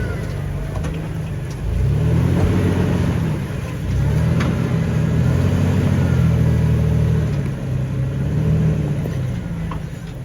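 Off-road 4x4's engine revving under throttle in two long pushes, the first starting about two seconds in and the second about four seconds in, then easing off near the end.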